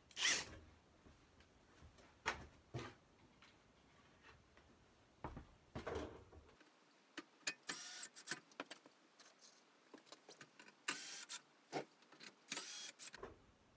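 Power drill driving screws back in, in three short runs of high motor whine, with small clicks and knocks of handling in between.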